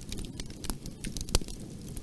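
Wood fire crackling in a fireplace: a steady low rumble of flames with irregular sharp pops and snaps, the loudest about halfway through.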